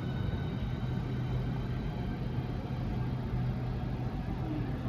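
Southeastern Class 395 high-speed electric train departing, heard as a steady low electric hum with faint steady higher tones over a noisy background.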